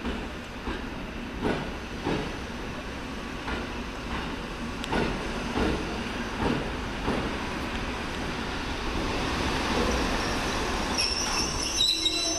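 EN57 electric multiple unit rolling slowly along the station tracks during a shunting move, its wheels knocking over rail joints and points at irregular intervals. A high-pitched wheel squeal rises near the end.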